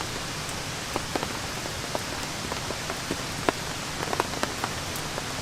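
Steady rain falling, with single drops ticking close by every so often.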